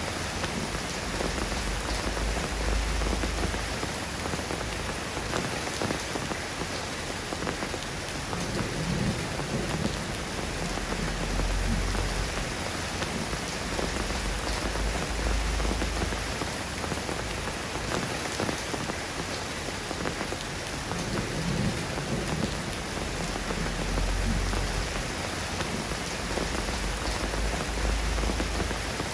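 Steady rain falling and pattering on surfaces, with low rumbles swelling up now and then.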